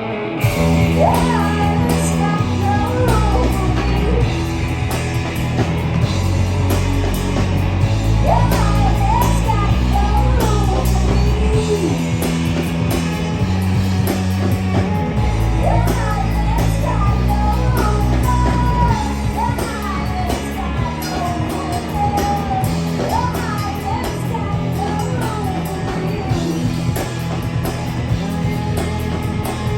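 A live rock band playing: drums, bass guitar and electric guitars, with a melody line bending up and down in pitch over the steady full-band backing.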